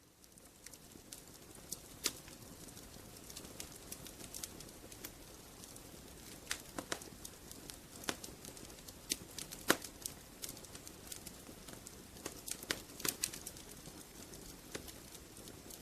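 Wood fire crackling: irregular sharp pops and snaps over a steady low hiss, fading in from silence at the start.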